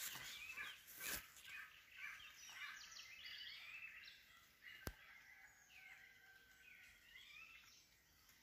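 Faint birdsong: many short chirps and calls from small birds. A single sharp click sounds about five seconds in.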